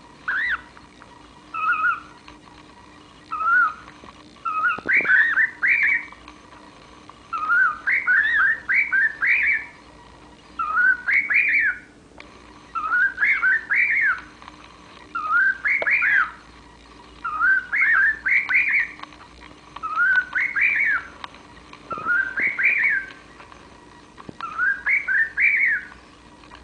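Cockatiel whistling the same short phrase over and over, about a dozen times, each a quick run of rising whistled notes with brief pauses between.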